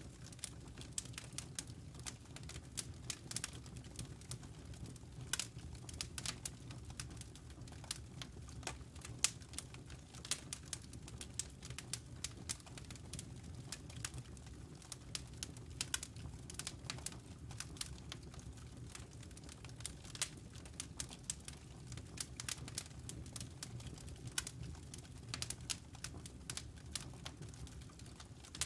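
Campfire wood and embers crackling: irregular sharp pops and snaps, several a second, over a steady low rumble.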